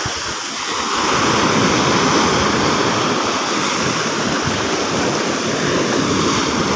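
Sea surf: waves breaking and washing in a steady rush, which swells up about a second in.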